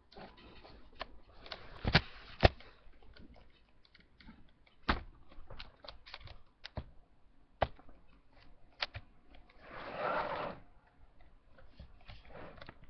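Irregular light clicks and knocks, two sharper ones about two seconds in, with a short rustle about ten seconds in.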